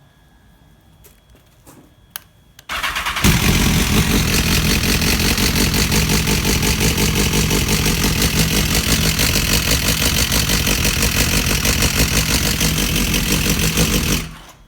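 2010 BMW S1000RR's inline-four engine cranked on the starter, catching after about half a second, then idling steadily for about eleven seconds before it is switched off. It runs with an abnormal engine noise that fitting a manual cam chain tensioner has not cured.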